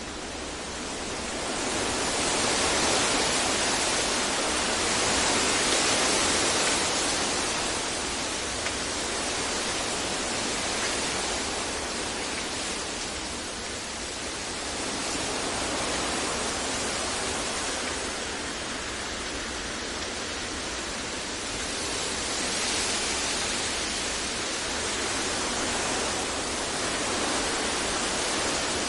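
Steady synthetic masking noise, a full even hiss with slow, gentle swells in loudness every several seconds, somewhat like distant surf.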